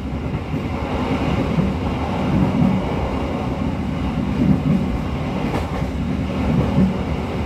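Moving passenger train heard from inside a carriage: the steady rumble of the wheels on the rails and the running carriage.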